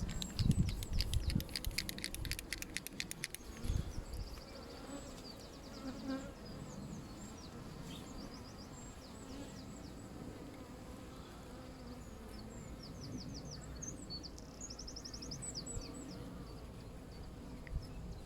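Honeybees humming steadily around an open hive, with some low rumbling handling noise in the first few seconds. A small bird sings high, quickly repeated notes near the start and again in the second half.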